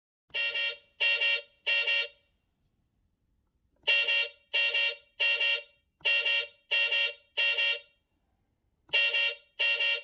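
Cartoon vehicle horn sound effect: three short, clear beeps at a time, repeated about four times with pauses between the sets.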